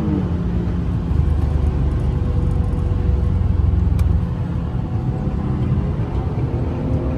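Infiniti G37 sedan's V6 engine and road rumble while driving at speed. The engine note drops just after the start, holds steady, then climbs again near the end.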